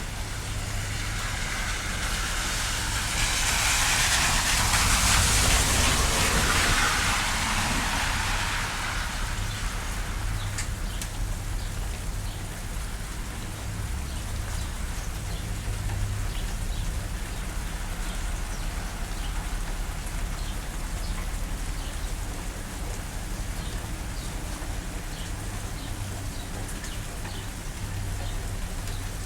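Steady rain falling, an even hiss with scattered drop ticks. A louder rushing swell rises and fades away between about three and nine seconds in.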